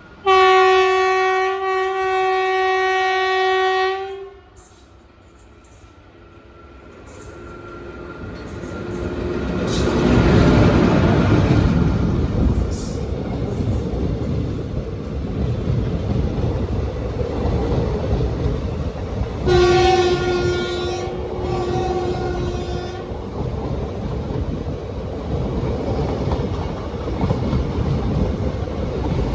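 Train horn sounded in one long blast, then a train rumbles past with wheels clattering over the rail joints. The horn sounds again in two blasts partway through the pass.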